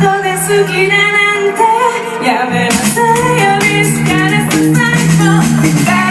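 Live band music with a woman singing. The low end drops out for the first couple of seconds, then comes back in.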